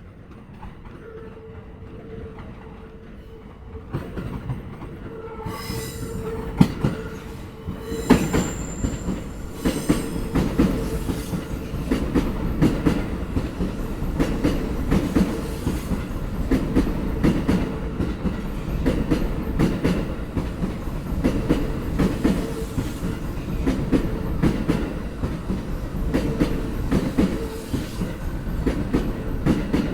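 Sobu Line commuter train rolling over rail joints, its wheels clacking in quick repeated groups as the carriages pass, over a steady whine. The sound builds about four seconds in and the clacking runs on densely from about eight seconds.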